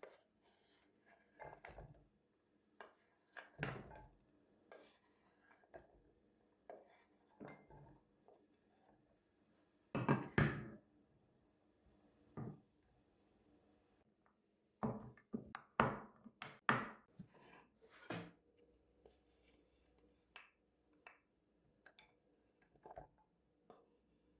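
Irregular knocks, taps and clatter of household objects being handled and set down, louder around ten seconds in and again between about fifteen and eighteen seconds in.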